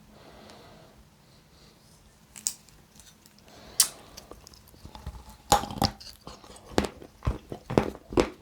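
Close-miked eating of a hard white-chocolate snack. A couple of sharp crunchy clicks come first, then from about halfway in a rapid run of crunchy bites and chewing.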